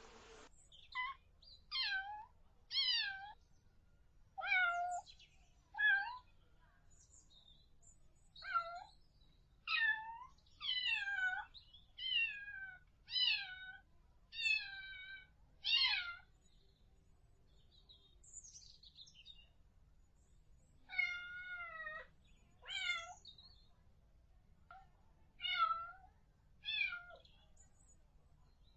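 Kitten meowing over and over in short, high-pitched mews, mostly about a second apart, with a pause of a few seconds in the middle.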